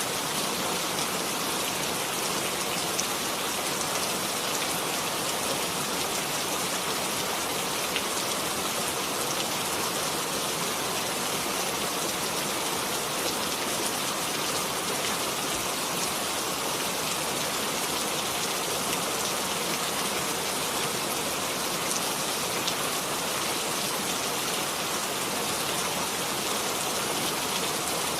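Steady rain falling, an even hiss with a fine scattered patter of drops.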